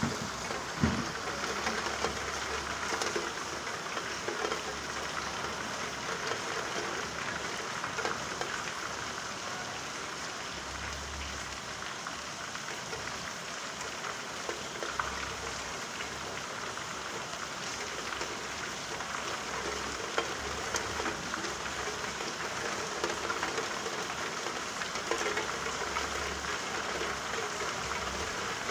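Steady rain falling, with a few scattered louder drop ticks.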